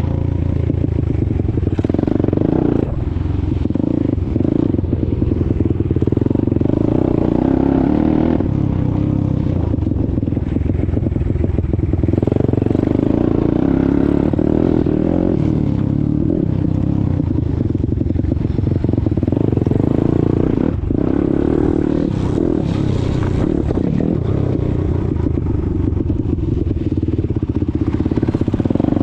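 A YCF Bigy pit bike's 190 cc Daytona single-cylinder four-stroke engine running while the bike is ridden, its pitch and load shifting with the throttle, with some clatter.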